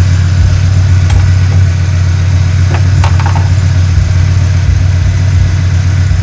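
Volkswagen Saveiro engine idling steadily with a loud, even low hum, heard close with the hood open. A few light clicks from hands working in the engine bay come at about one and three seconds in.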